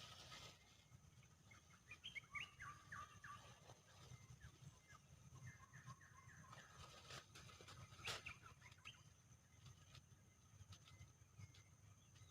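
Faint bird calls: two runs of short, quickly repeated chirping notes, a few seconds apart, over a steady thin high tone, with a single sharp click about eight seconds in.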